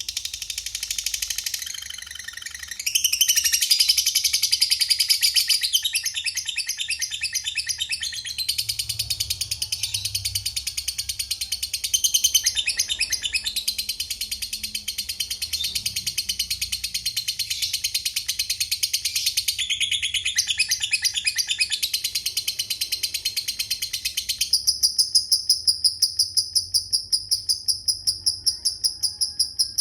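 Lovebird chattering in long, rapid, high-pitched trills (the "ngekek panjang" song), nearly unbroken for most of the stretch. Near the end the trills give way to a regular high ticking of about two or three ticks a second.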